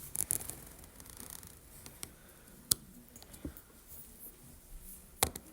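Small handling noises at a table: a few sharp clicks or taps, about 2.7 s in and twice near the end, over faint scratching.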